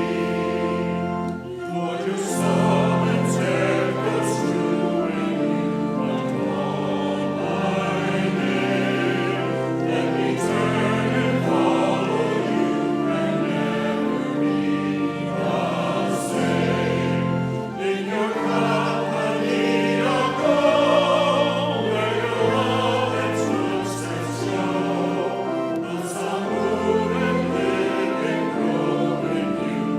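Church choir singing, with sustained chords that change step by step and sung words heard now and then.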